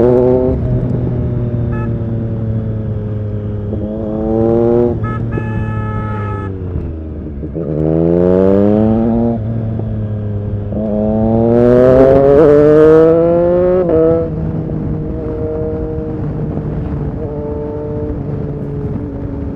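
Triumph Street Triple RS 765's inline three-cylinder engine through an SC-Project S1 exhaust, heard from the bike: it revs up three times, rising in pitch, and eases off between, then runs at a steadier, lower pitch over the last few seconds.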